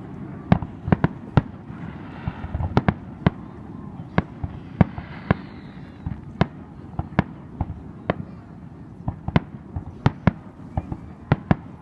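Aerial fireworks display: an irregular string of sharp bangs, about two a second, over a steady low rumble.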